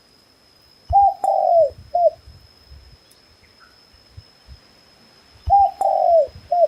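A dove cooing twice, each call three coos: a short note, a longer note that falls in pitch, and another short note.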